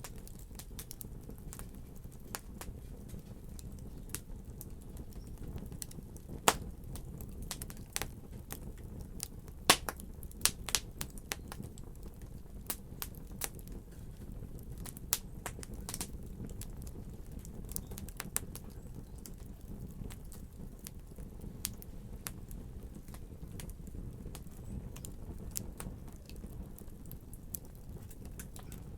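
Wood fire in a fireplace crackling: irregular sharp pops and snaps over a steady low rumble of burning, with a few louder pops about six and ten seconds in.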